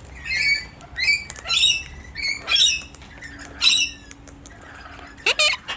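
Wild parrots squawking close by: about five short, high calls in the first four seconds, then one louder rising call near the end.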